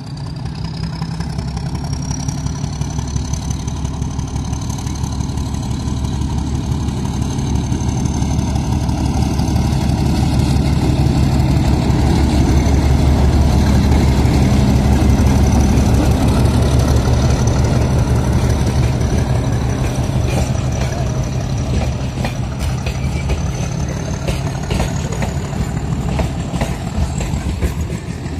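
Diesel locomotive running as it approaches and passes, its low engine rumble building to a peak as it goes by about halfway through, with a steady high whine above it. In the later part, wheels knock over the rail joints as the passenger coaches roll past.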